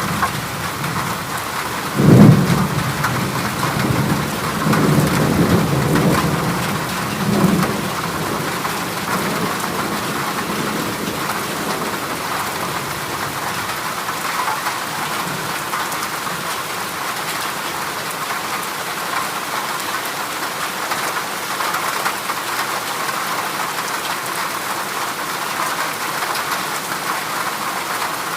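Heavy rain drumming steadily on a corrugated zinc roof. A thunderclap breaks about two seconds in and rumbles on for several seconds before fading back under the rain.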